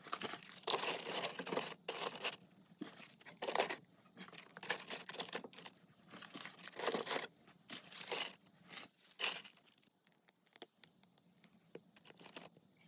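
Irregular bursts of crumpling and tearing, like kindling material being handled and torn while a fire is laid. They stop about ten seconds in, leaving only faint scattered ticks.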